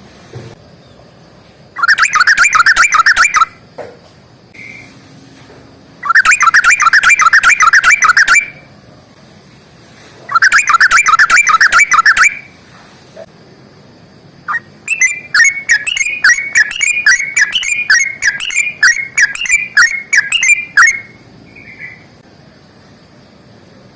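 Yellow-vented bulbul song: three loud bursts of rapid bubbling notes, each about two seconds long, then a longer run of quick chattering notes lasting about six seconds.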